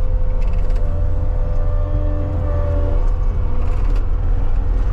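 CAT 279D compact track loader's diesel engine running steadily, a deep rumble with a thin steady whine over it that fades out about three seconds in.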